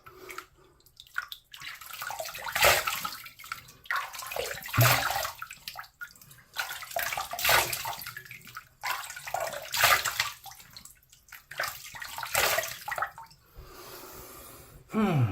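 Tap water running into a sink while water is splashed up by the handful, about five splashes a couple of seconds apart: rinsing the face after a wet shave.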